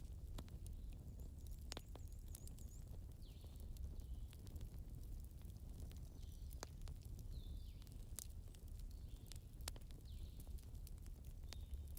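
Campfire crackling: irregular sharp pops and snaps over a steady low rumble, with a few short high whistling squeaks.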